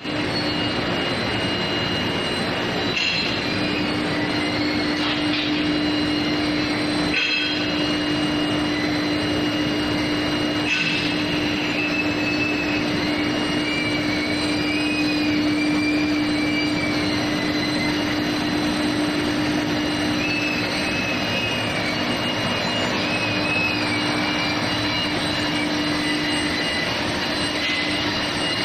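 Billet induction heating furnace line running: a steady loud machine noise with a continuous hum and high steady whines. A few sharp knocks come in the first third, and wavering high squeals come and go in the middle and later part.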